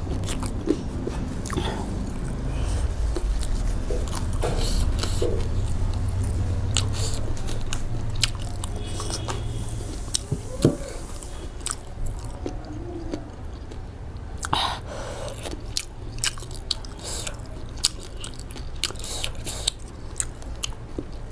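A person biting and chewing food close to the microphone, with many short crunchy clicks, over a low rumble that fades about halfway through.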